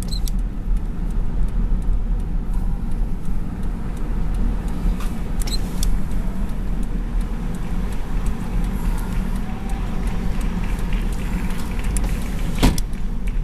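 Steady low rumble of a car, heard from inside the cabin, with a sharp click near the end.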